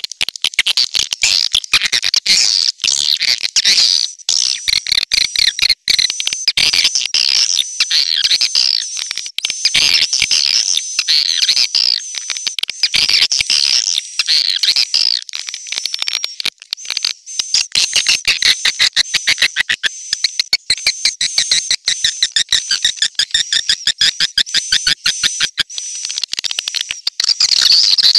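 Swiftlet calls from a lure recording played to attract swiftlets into a nesting house: dense, rapid twittering chirps with a thin, high steady note running through them.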